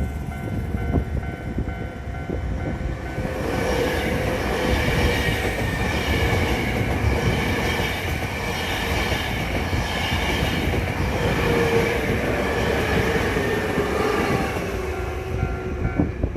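A Hankyu Railway electric train passes over a level crossing, its wheels running and squealing on the rails. Its sound builds about three seconds in and eases off near the end. The crossing's warning bell rings steadily at the start, under the train noise.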